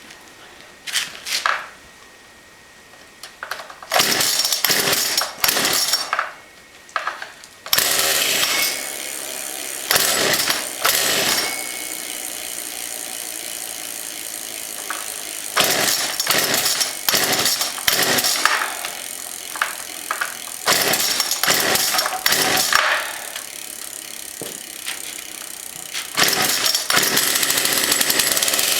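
A 33cc Poulan two-stroke chainsaw engine on a homemade motorized bicycle being started: a few short bursts in the first seconds, then it catches about eight seconds in and keeps running. It idles through the warm-up, with the throttle blipped several times in loud rising revs.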